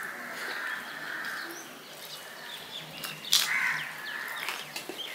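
Birds calling: a drawn-out harsh call at the start and another about three and a half seconds in, with thin chirps between and a few sharp clicks.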